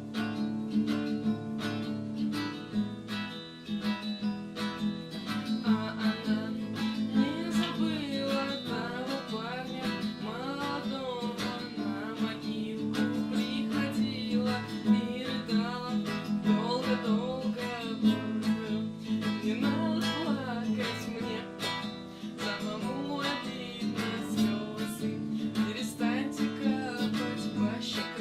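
Acoustic guitar strummed steadily as the song's accompaniment. Through the middle stretch a wavering melody line, likely a wordless vocal, runs over the strumming.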